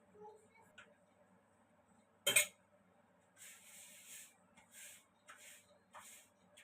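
Household handling noises: one sharp click or knock a little over two seconds in, then a string of short scraping or rustling sounds.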